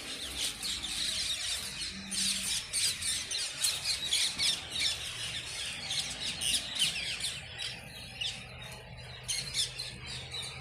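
Birds chirping outdoors: many short, high calls overlapping, thinning out after about eight seconds.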